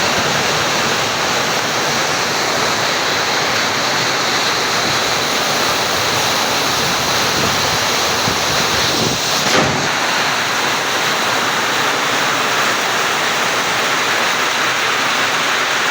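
Steady, dense rush of water from heavy rain, with a brief swell a little past halfway.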